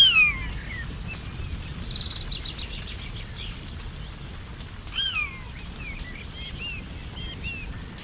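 Forest birds calling over a steady low rumble. A loud, falling whistled call opens, comes again about five seconds in and once more at the end, with a quick run of high notes about two seconds in and softer chirps in between.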